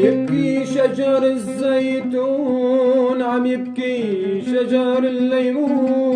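Arabic song: a male voice sings long, drawn-out notes with no clear words over a sustained accompaniment, the melody sliding down about two-thirds of the way through.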